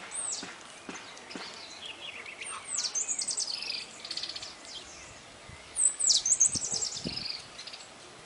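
A small songbird singing two quick phrases, each opening with a high note that drops steeply and running into fast trills. The second phrase, about three seconds after the first, is louder.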